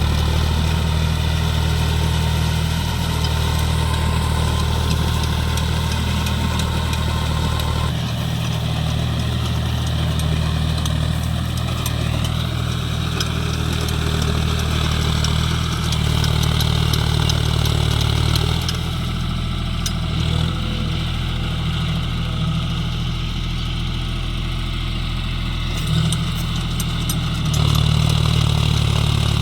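John Deere 5050D tractor's diesel engine running steadily under load while pulling a rotavator through wet mud. Its note shifts a few times as the load changes, and is a little louder near the end.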